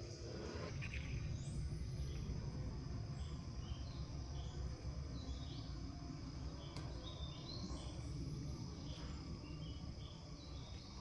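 Insects, crickets among them, calling outdoors: a steady high-pitched drone with repeated short chirps and a few rising high calls, over a steady low rumble.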